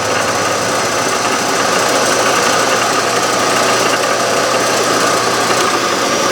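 Metal lathe running on power from a rotary three-phase converter while it takes a final cutting pass: a steady machine drone with a low hum.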